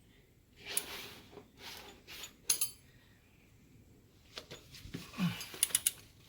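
Metal hand tools clinking and a ratchet clicking in irregular bursts while the wheel bearing bolts are tightened, with a quick run of sharp clicks near the end.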